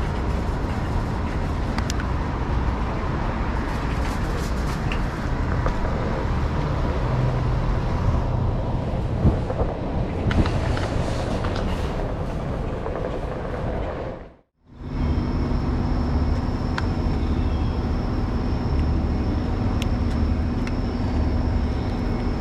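Ride noise from a OneWheel electric board rolling along the street: steady rolling noise with a low rumble of wind on the microphone. The sound cuts out for a moment about two-thirds through and comes back with a steady hum under it.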